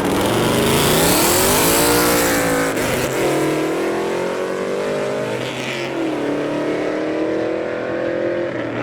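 Modified car accelerating hard away, its engine note climbing and dropping back several times as it shifts up through the gears, with a loud exhaust rasp in the first couple of seconds.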